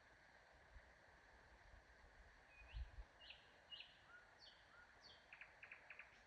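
Faint morning birdsong: a few short high chirps begin about two and a half seconds in, followed by a quick run of short notes near the end, over a faint steady hiss.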